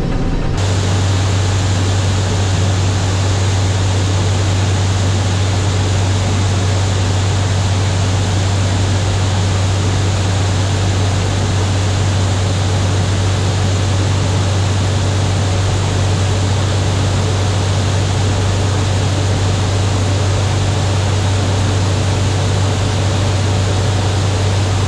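International Harvester 1440 combine running steadily under load while unloading soybeans into a truck. A constant low engine hum sits under a loud, even rush of noise that starts abruptly about half a second in.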